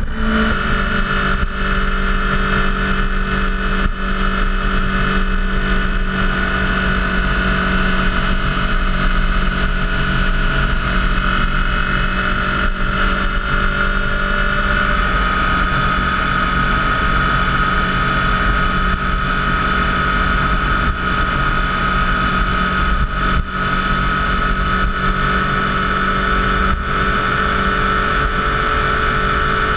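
Motorcycle engine running at a steady cruising speed, the note holding nearly constant and shifting slightly about halfway, over a low rumble of wind and road noise.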